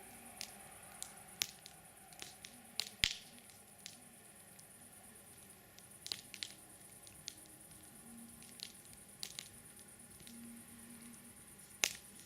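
Campfire crackling: irregular sharp pops and snaps over a faint steady hiss, with the loudest snaps about three seconds in and just before the end.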